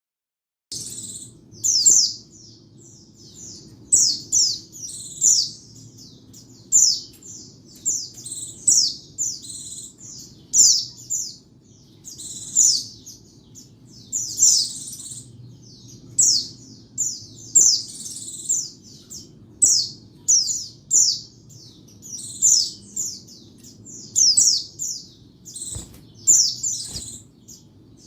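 A white-eye (pleci) singing rapid, high-pitched twittering phrases, one burst about every second or two. This is the clear song used as a master and lure call for the species.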